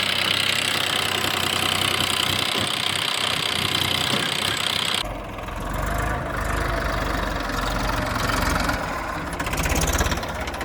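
Tractor diesel engine running steadily; about halfway through the sound changes abruptly to a heavier, deeper rumble.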